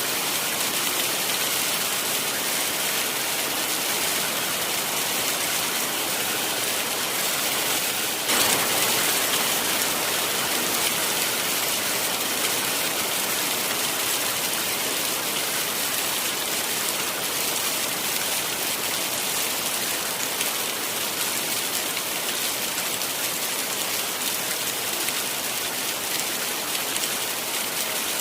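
Heavy rain falling steadily, a dense even hiss of rain on surfaces, growing a little louder about eight seconds in.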